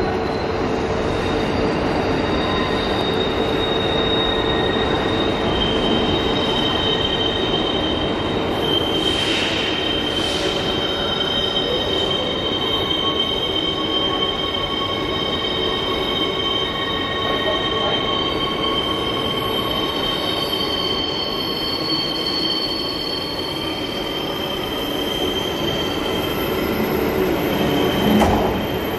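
Queensland Rail electric suburban train moving through the station over a steady rumble, its steel wheels squealing against the rails in long, high, steady tones. Two short hisses about nine and ten seconds in.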